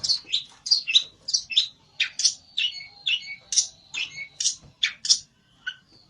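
Pelentet songbird calling agitatedly in a rapid run of short, sharp, high chirps, about two a second, the excited calling of a bird challenging a rival.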